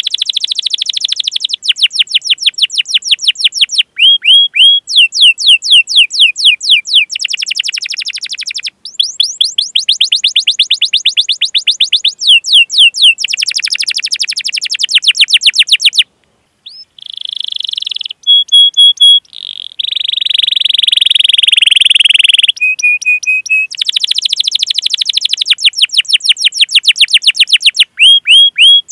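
Domestic canary singing a long, fast song: rapid runs of repeated high chirps and rolling trills, changing from phrase to phrase, with a brief pause about halfway and a steady buzzing roll a few seconds later.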